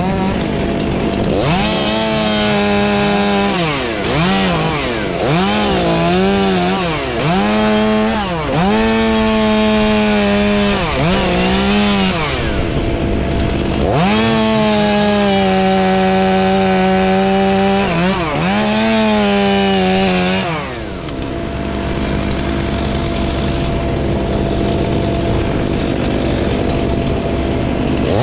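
Chainsaw revving up and down in quick bursts, then held at high revs for a few seconds as it cuts wood. About two-thirds through it drops away to a lower steady engine drone, then revs up again at the very end.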